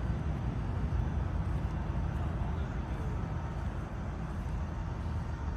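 A vehicle engine running steadily, heard as a low rumble.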